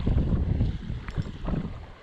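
Wind rumbling irregularly on the microphone beside a river, with water lapping and a few light knocks.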